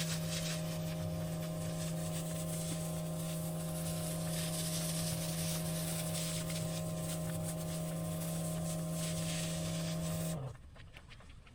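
Pressure washer running steadily: a constant machine hum with a hiss of spray over it. It cuts off suddenly about ten seconds in, leaving a much quieter background.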